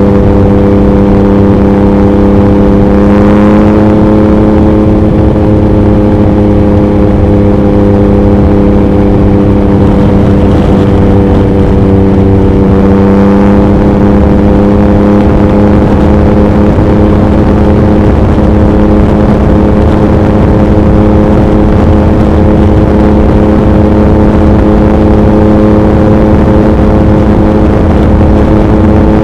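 2021 Yamaha MT-09's three-cylinder engine through an Akrapovic racing exhaust, cruising at a steady highway speed, its pitch nearly constant with a slight rise about three seconds in. Heavy wind noise on the microphone.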